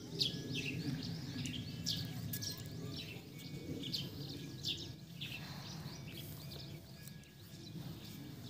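Birds chirping in many quick, short calls, busiest in the first half, over a steady low background noise.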